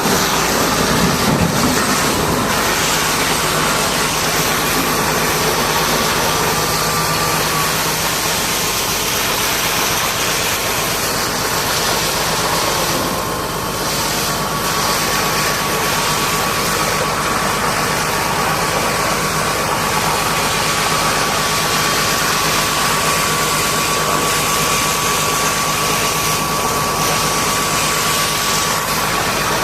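An engine running steadily, with a constant high whine over a hiss and a low hum; the level dips briefly about thirteen seconds in.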